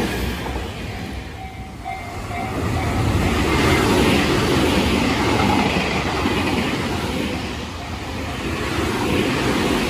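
A Tobu Tojo Line electric train passing close by over a level crossing: wheel and car noise that swells, eases and swells again.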